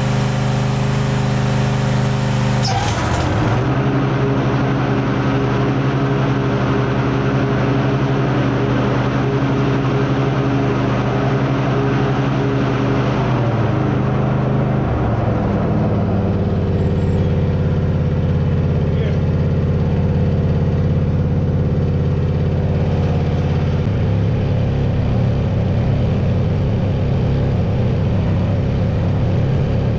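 Kawasaki FR730V V-twin engine of a Husqvarna YTH24V42LS riding mower running just after an oil and filter change. Its engine speed shifts several times: about three seconds in, around thirteen and fifteen seconds in, and again near twenty-four seconds.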